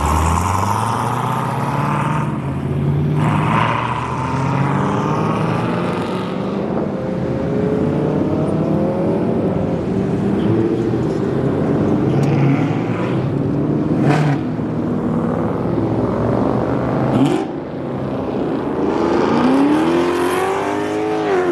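Several cars' engines revving and accelerating away, their pitch rising and falling as they pull off one after another. Two short sharp cracks come about three seconds apart past the middle.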